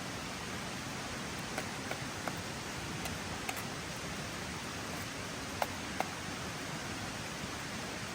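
Steady hiss of rain falling through a forest, with a few short sharp clicks scattered through it, the loudest two close together about six seconds in.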